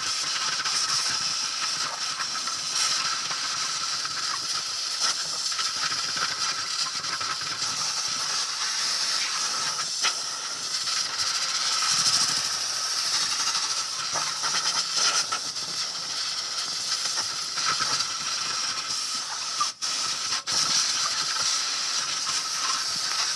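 Compressed air hissing steadily, blowing dust and loose rust scale off a wire-brushed muffler seam. The air cuts out briefly twice near the end.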